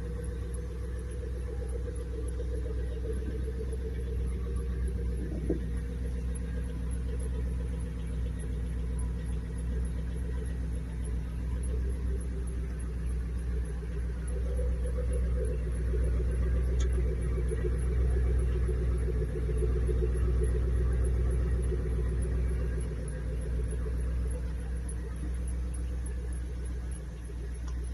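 MG ZT 260's 4.6-litre V8 engine running with a steady low rumble, getting a little louder around the middle, with one short click about five seconds in. It is the noise the owner is asking about.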